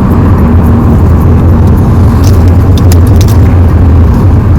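Steady low road and engine rumble inside a moving car's cabin, with a few light clicks.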